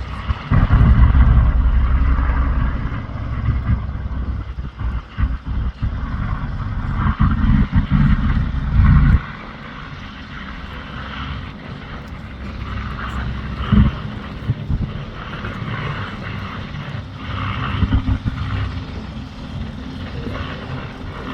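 Aircraft engine noise, with a heavy, uneven low rumble for about the first nine seconds that drops away suddenly, leaving a quieter steady drone.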